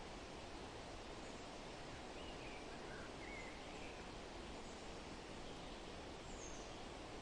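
Steady wind rustling through forest leaves, with a few faint, brief bird chirps in the middle and one higher chirp near the end.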